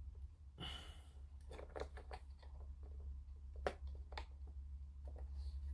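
Small clicks and taps of plastic model-kit parts being handled and pressed together as the ambulance body is fitted onto its chassis, over a steady low hum.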